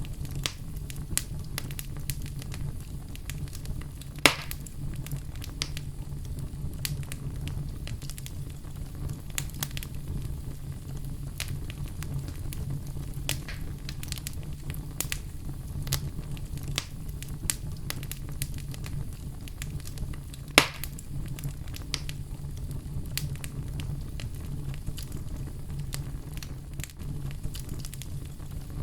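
Fireplace fire crackling, with frequent small snaps over a low steady rumble. Two louder pops stand out, one about four seconds in and another about two-thirds of the way through.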